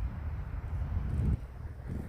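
Wind buffeting the microphone: a low, gusty rumble that eases off about one and a half seconds in.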